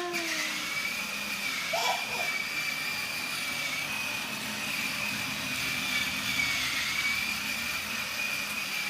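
Motorcycle running steadily at a constant pitch, with a thin high whine over its hum.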